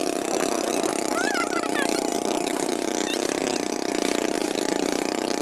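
Motorboat engine running steadily, a continuous even drone heard from on the water.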